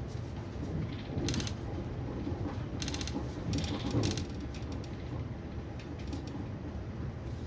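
Steady low rumble of a Railjet passenger train running at speed, heard inside the coach, with a few short rattling clicks about a second in and again around three to four seconds in.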